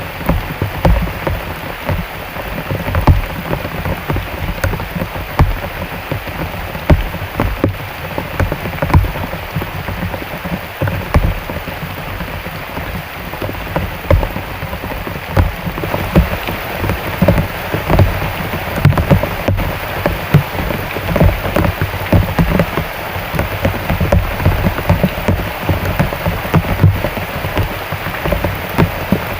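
Heavy rain falling steadily, a dense patter of many small drops with frequent low thuds.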